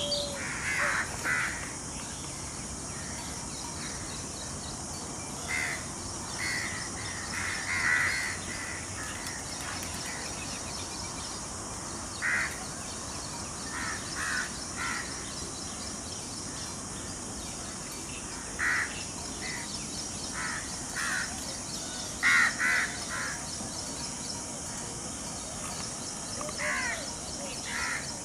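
Harsh, crow-like bird calls, short and loud, given in ones, twos and threes every few seconds, over a steady high-pitched drone.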